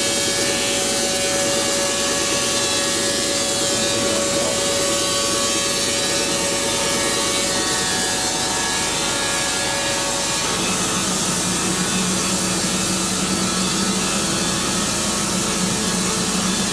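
Band sawmill blade cutting steadily through a log as the sawhead feeds along it. About ten seconds in, the tone of the running shifts lower.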